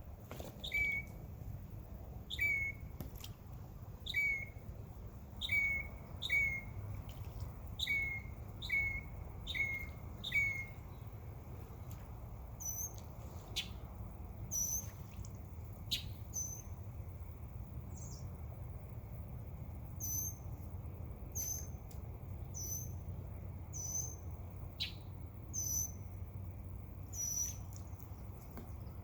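Songbirds chirping: short chirps repeated about once a second for the first ten seconds, then a higher-pitched series of chirps takes over, over a steady low background rumble.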